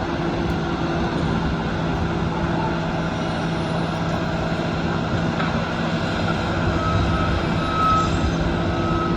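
Heavy construction machinery running with a steady engine drone, and a backup alarm starting to beep at an even pace near the end.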